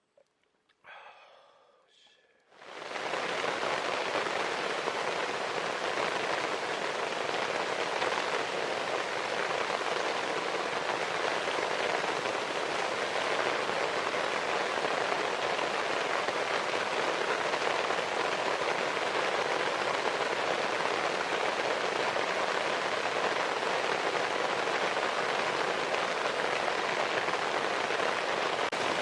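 Heavy rain falling steadily, an even hiss that starts suddenly about three seconds in.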